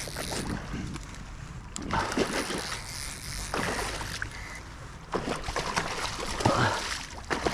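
Water splashing and sloshing in several short surges, over a steady low rumble of wind on the microphone.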